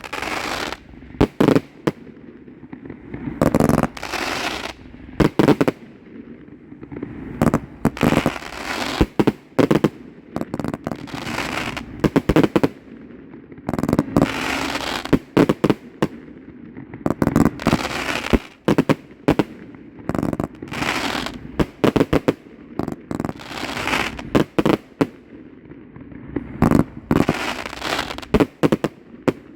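A 99-shot consumer fireworks fan cake firing in rapid succession: a steady string of sharp launch thumps and bangs, some in quick clusters, with crackling and breaks between them.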